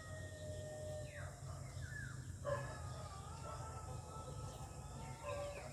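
An animal's long, drawn-out cries: held tones with a few short downward-sliding calls between them, over a steady low rumble.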